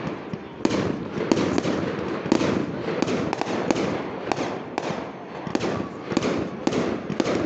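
Aerial fireworks shells bursting in a rapid, irregular series of bangs, about two or three a second, with a continuous noise filling the gaps between them.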